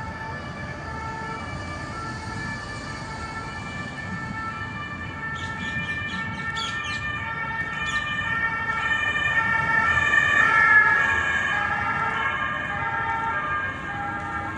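Emergency vehicle's two-tone siren alternating between two pitches, growing louder to a peak about eleven seconds in, its pitch sliding down a little as it passes, then easing off. A few short high chirps, likely birds, come between about five and eight seconds in.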